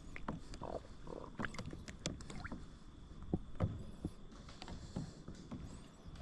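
Scattered light knocks and clicks of gear against a kayak, with two duller thumps a moment apart about three and a half seconds in.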